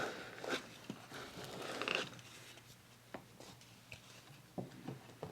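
Paper being handled on a work surface: soft rustling and scraping that build up to about two seconds in, then a few light taps.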